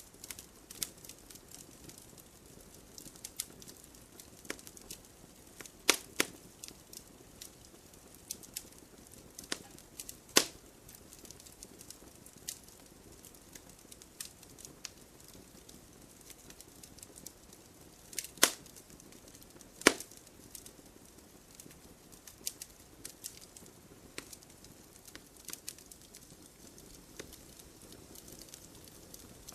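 Wood campfire crackling: irregular sharp pops and snaps over a faint hiss, with a few louder pops scattered through.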